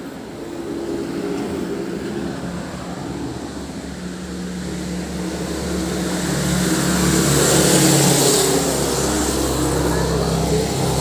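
A motor vehicle's engine running steadily, growing louder over the first eight seconds or so, then easing off a little.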